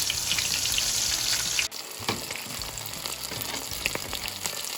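Breaded panfish fillets deep-frying in very hot peanut oil, a dense sizzle. About a third of the way in the sizzle drops suddenly in level and goes on quieter, with scattered crackles.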